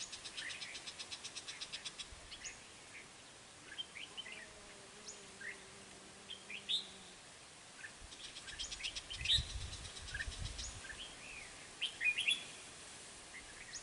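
Ché khét birds calling: a fast chattering rattle near the start and again about eight seconds in, with scattered short chirps between. A low rumble sits under the second rattle.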